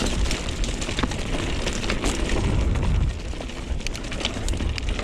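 Wind buffeting the microphone with a heavy low rumble, over tyres running on a dirt trail and a mountain bike rattling and clicking over bumps while riding.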